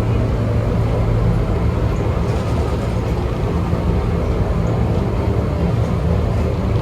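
Heritage electric tram running, with a steady low hum and rumble.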